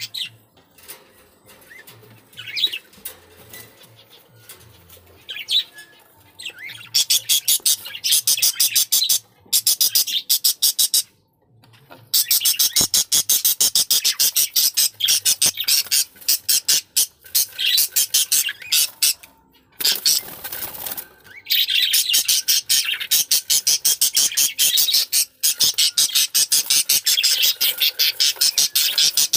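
Pet budgerigars chirping and chattering, faint at first, then in long loud, rapid stretches from about seven seconds in.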